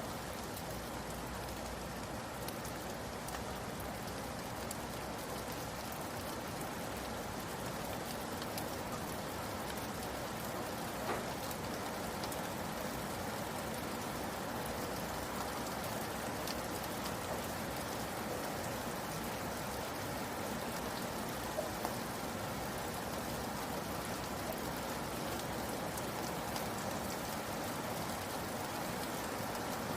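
Steady rain falling on a surface, an even patter of drops with a few louder individual drips.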